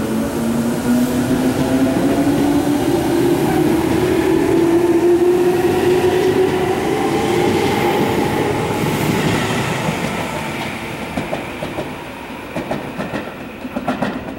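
Tobu 10050 series electric train pulling out of the station: the traction motors whine and rise steadily in pitch as it accelerates past, then the sound eases off, with a few wheel clicks over rail joints near the end.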